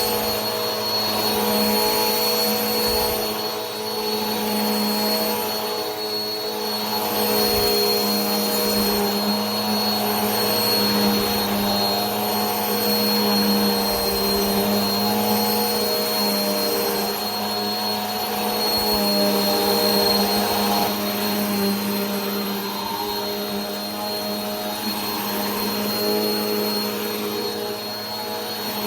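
Vacuum cleaner running steadily: a motor hum with a thin high whine over a rush of air, swelling and easing gently every few seconds.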